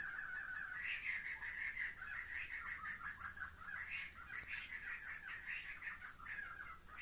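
A flock of birds calling together: a continuous chatter of many short, rapid calls, swelling briefly about a second in and again about four seconds in.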